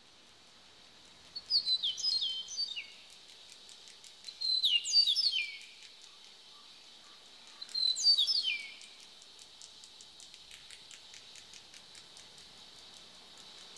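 Bird song: three bursts of high chirps, each stepping down in pitch, about three seconds apart, over a faint steady high tone, followed by a run of fast, faint ticks.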